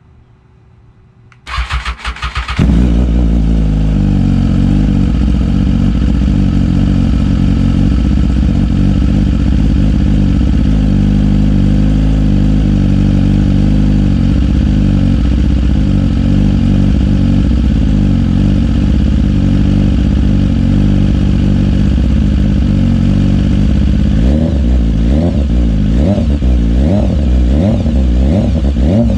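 2017 BMW S1000RR inline-four engine breathing through a straight-through Austin Racing GP3 de-cat exhaust, started from cold: the starter cranks briefly, then the engine catches and settles into a loud, steady cold-start idle. Near the end it is revved in a quick series of short blips.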